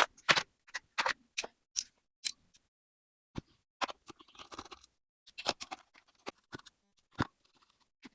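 Irregular sharp clicks and light scrapes of the plastic casing of a rabbit-shaped children's story player being handled and worked apart.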